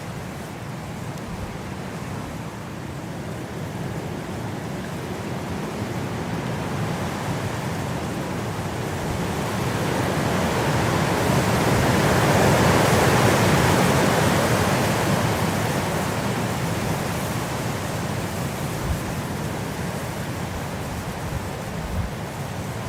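Wind blowing as a steady rush, building to a strong gust about halfway through and then dying back down.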